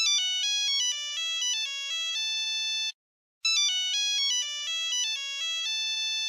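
Mobile phone ringtone: an electronic melody of stepping notes played for about three seconds, a brief pause, then the same phrase again.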